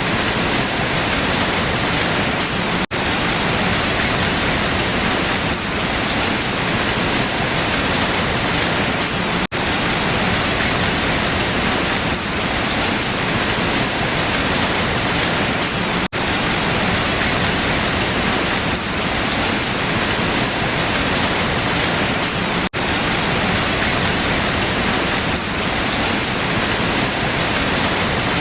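Steady rain falling on leaves, a dense even patter, broken by a momentary dropout about every six and a half seconds.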